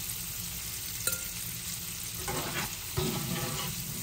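Chicken pieces sizzling steadily in hot bacon grease in a nonstick sauté pan as a wire straining spoon scoops them out. A sharp click comes about a second in, and the spoon knocks and scrapes in the pan shortly before the end.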